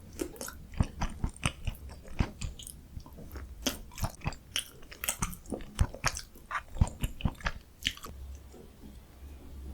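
Close-miked chewing and mouth sounds of a person eating, a rapid run of sharp smacks and clicks that thins out about eight seconds in.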